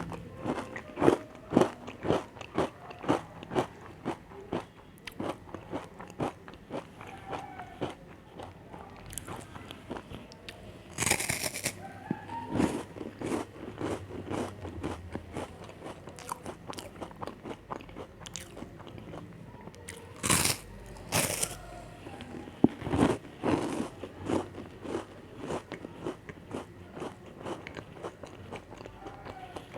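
Close-miked eating of chocolate cookies: crisp crunching bites and steady chewing, about two crunches a second at first, with a few louder bites later on.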